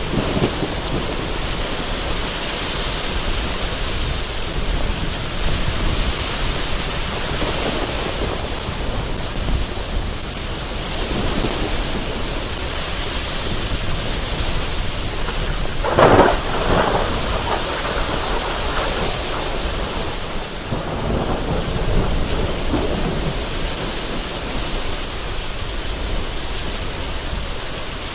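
Heavy rain and gusting wind in a steady wash, with thunder rumbling; a little past halfway a sharper, louder clap of thunder breaks through, then dies back into rumbling.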